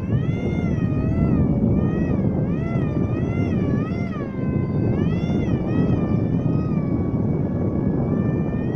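Small RC paramotor's motor and propeller whining, its pitch rising and falling about once a second as it flies through gusts, over heavy wind rumble on the microphone.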